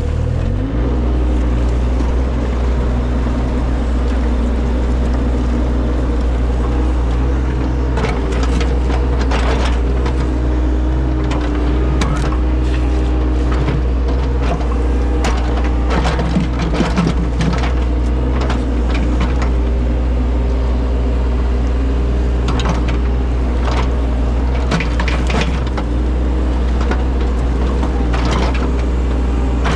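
Engine of a compact earthmoving machine running steadily at high throttle after revving up right at the start. Repeated scraping and cracking of dirt and stones under the bucket as the ground is worked.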